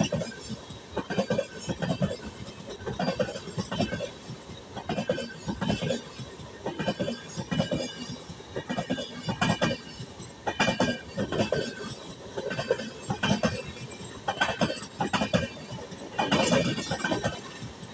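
Passenger train coaches rolling past close by, their wheels clattering in regular groups of clicks, about one group a second, over a steady rumble with a metallic ring.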